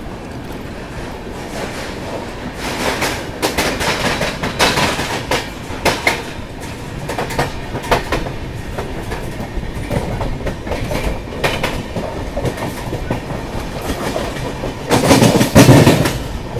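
Express train coaches pulling out of a station and picking up speed, heard at the open coach door: a steady rumble with the wheels clicking and clattering over the rail joints. A louder, deeper rush comes near the end.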